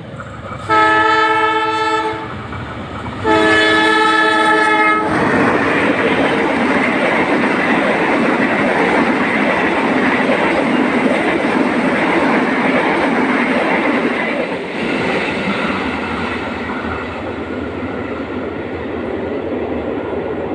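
Diesel-electric locomotive sounding two long horn blasts with a short gap between them. It then passes close by with its train of stainless-steel passenger coaches: a loud, steady rush of engine and wheels on the rails that eases off a little in the last few seconds.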